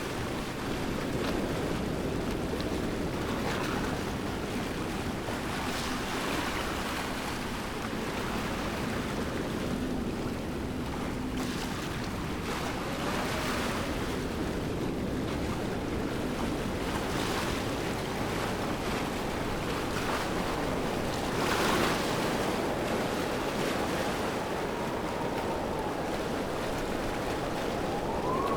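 Waterfall rushing steadily, an even wash of falling water with no break.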